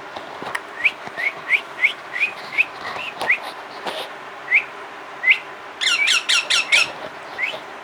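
Pet parrot giving short rising chirps, about three a second, then two more spaced out, and a quick run of louder chirps near the end.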